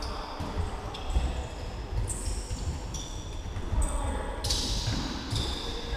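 Shoes squeaking repeatedly on a hard hall floor, with dull thuds of the ball and running feet during an indoor football game.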